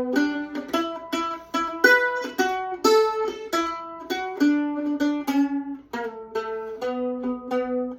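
A plucked string instrument playing a melody, one picked note after another with quick attacks that ring and fade.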